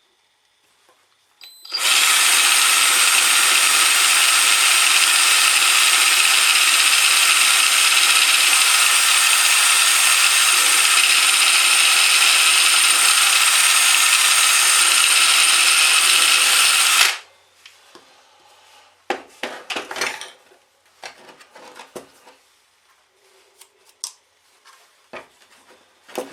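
Electric drill boring a small pilot hole, running at a steady speed for about fifteen seconds and then stopping suddenly. A few light knocks and handling clatter follow.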